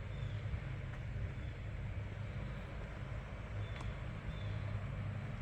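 Steady low outdoor rumble, with a single faint click about four seconds in.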